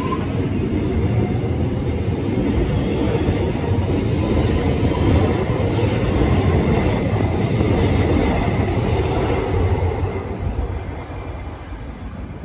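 X'Trapolis electric multiple-unit train running along the track, a loud steady rumble of wheels on rail that fades over the last couple of seconds.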